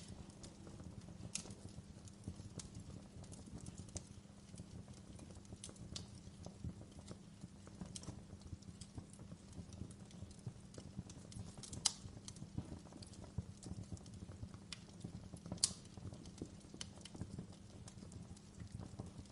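Wood fire crackling: a steady low rumble of burning with irregular small pops and clicks. Two louder snaps come about two-thirds of the way through and again a few seconds later.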